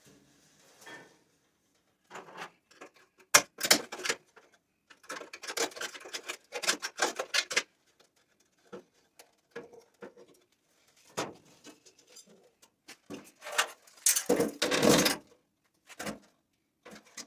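Hand work on a steel door hinge: irregular metal clicks, clinks and short scraping rasps, with the longest, loudest scrape about two-thirds of the way through.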